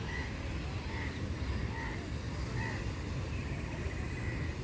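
A bird calling with short, repeated notes about once a second, over a steady low rumble.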